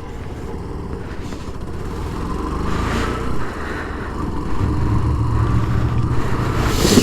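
Kawasaki Ninja 125's single-cylinder engine running under way, a low rumble that grows louder, settling into a steadier engine note about halfway through.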